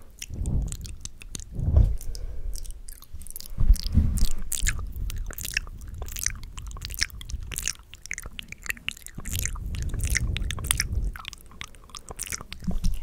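Close-miked ASMR mouth sounds: a dense, irregular run of quick clicks, with low thumps here and there.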